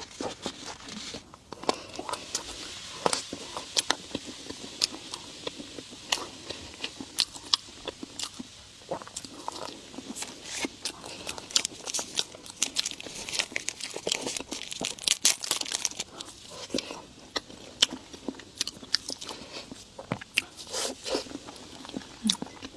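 Close-miked eating: biting and chewing, with many small crunchy clicks and wet mouth sounds throughout.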